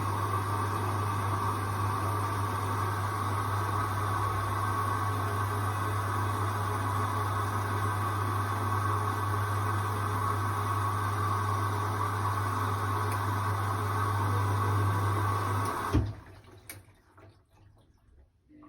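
Hoover washing machine filling with water early in its wash cycle: a steady rushing of water with a low mains hum from the inlet valve, which shuts off with a click about sixteen seconds in, leaving near silence.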